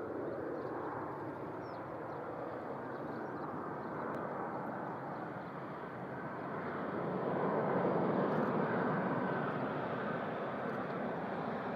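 Jet engine noise of a Boeing 767-300ER on its landing approach: a steady rush that swells to its loudest about eight seconds in as the airliner passes closest, then eases slightly.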